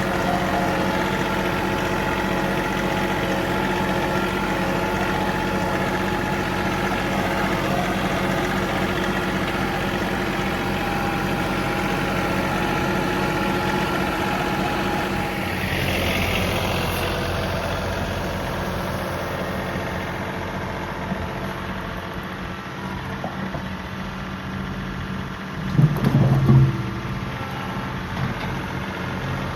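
John Deere 3038E compact tractor's three-cylinder diesel engine idling steadily. A couple of short, louder low sounds come near the end.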